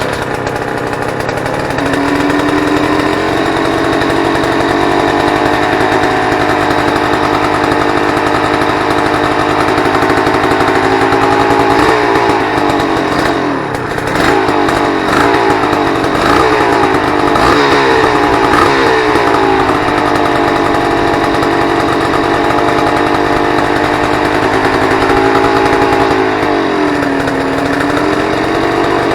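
Honda CRM250 two-stroke single-cylinder engine running steadily at a raised speed, with revs swinging up and down several times in the middle and dipping once near the end. The revs will not come back down to idle, the symptom the owner is chasing.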